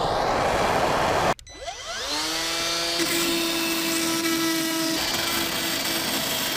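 A loud rushing noise cuts off abruptly just over a second in. A power tool then spins up with a quickly rising whine and runs at a steady speed.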